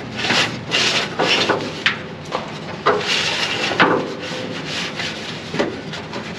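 Plastic wire loom on a wiring harness scraping and rustling as it is pulled and fed along by hand, in a quick run of rubbing strokes that thin out after about four seconds.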